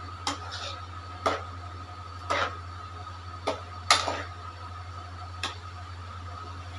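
Cooking utensil knocking and scraping against a kadhai as chicken in sauce is stirred, about six sharp knocks spaced irregularly, roughly one a second. A steady low hum runs underneath.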